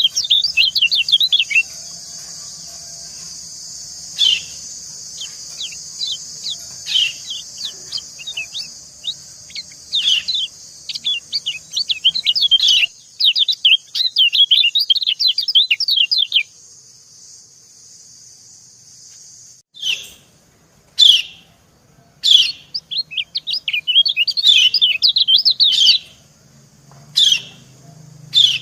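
Yellow white-eyes (kecial kuning) calling: a female's 'ciak' calls answer a male's, in fast runs of short, high chirps with single chirps between. A steady high hiss sits under the first half and stops about two-thirds of the way through, and a short pause in the calling follows it.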